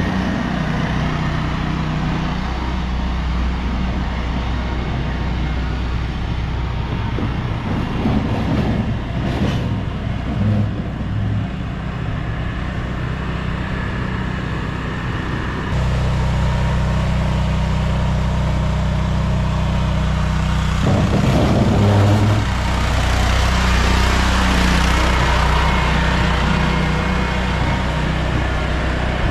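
Engine of a snow-plowing vehicle running steadily, its note changing suddenly about 16 seconds in and again about 21 seconds in, with a hiss building up near the end.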